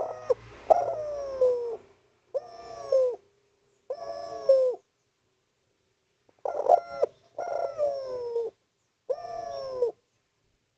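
Spotted dove (derkuku/tekukur) cooing loudly in repeated phrases, each coo sliding down in pitch. One bout of about four coos is followed by a short pause, then a second bout of three.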